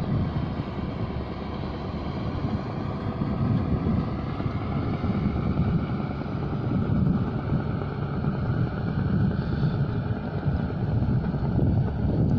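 Wind buffeting the microphone, with an uneven low rumble.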